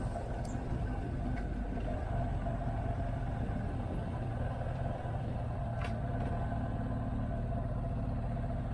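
Motorcycle engine running at a steady, unchanging pitch, a constant low rumble.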